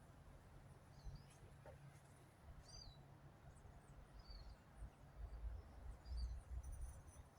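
Faint bird chirps in the background, a short call about every second and a half, over a low steady rumble.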